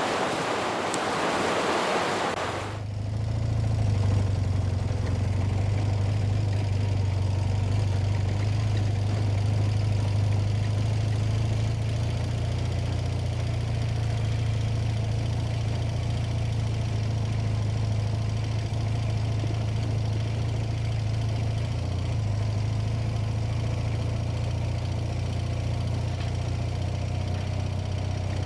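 Rushing river water for the first few seconds, cut off suddenly, then a motorcycle engine running with a steady low drone at an even pitch.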